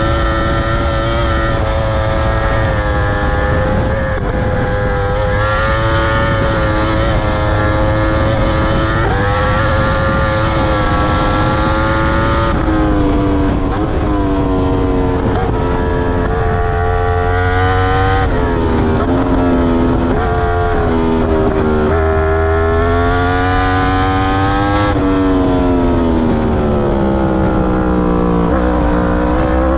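2021 Yamaha R1's crossplane inline-four on its Akrapovic full titanium exhaust, fitted with the dB killer, running hard on track. The engine holds a nearly steady high pitch for about twelve seconds, then its pitch repeatedly falls and climbs again, with a long fall near the end and a rise at the very end.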